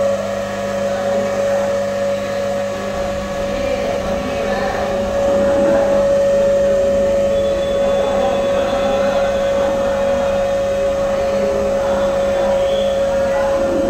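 LG microwave oven running with a loud, steady hum and a high whine through it. The noise comes from the cooling fan motor, which the repairer puts down to dust on the fan.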